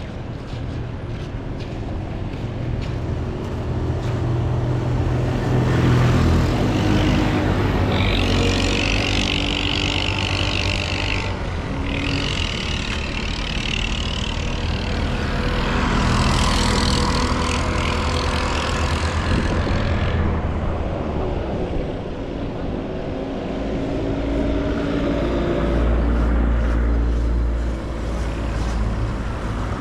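Street traffic: motor vehicle engines running and passing close by, with louder passes about eight and sixteen seconds in and a deeper engine rumble near the end.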